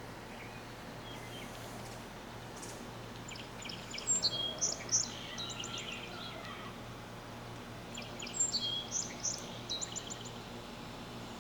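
A songbird singing two short phrases of quick, high chirps and trills a few seconds apart, over a low steady hum.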